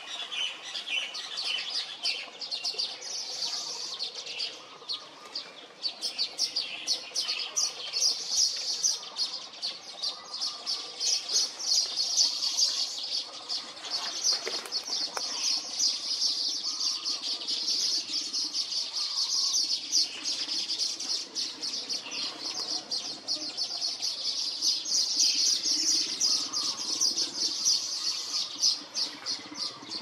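Birds chirping in a fast, continuous, high-pitched twittering.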